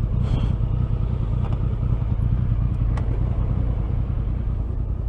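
Steady low rumble of a motorcycle on the move, heard from the rider's own camera, with a couple of faint brief ticks.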